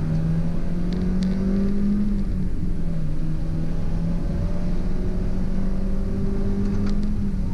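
Stock NB2 Mazda Miata's 1.8-litre four-cylinder engine pulling hard on track, heard from inside the cabin. Its pitch climbs steadily, breaks off briefly about two and a half seconds in, climbs again, and falls away near the end.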